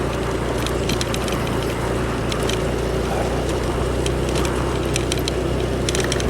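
Motorcycle engine running steadily under way on a forest track, with scattered short, sharp ticks over its steady hum.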